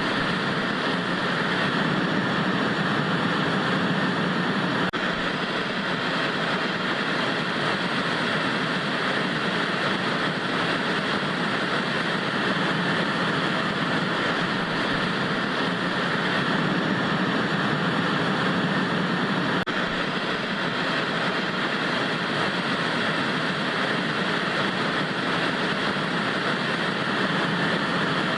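Steady hiss of analog TV static, an even, unchanging noise with no tones or events.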